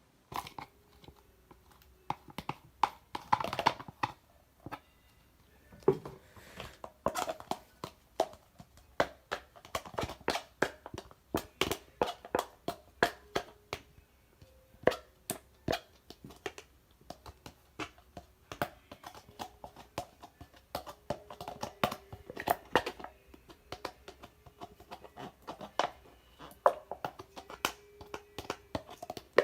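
Brown-sugar bubble tea slime being pressed and stretched by hand: a steady run of sharp sticky pops and clicks, several a second, with a few longer squishy stretches.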